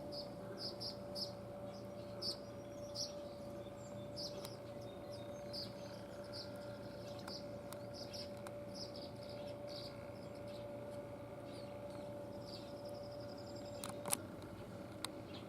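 Tree swallows chirping around a nest box: many short, high twittering notes, singly and in quick runs. A steady hum sounds underneath and stops with a click near the end.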